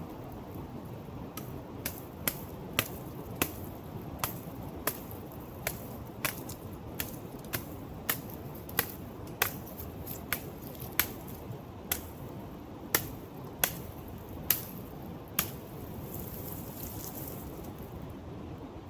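A blade chopping a dry coconut palm fruit bunch into pieces for kindling: about twenty sharp, crisp strikes, one every two-thirds of a second or so, that stop about fifteen seconds in. A steady background rush runs underneath.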